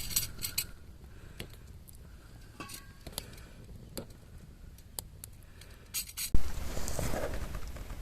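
Small utensils clinking and clicking now and then, with a brief ring about three seconds in, then a louder clatter about six seconds in.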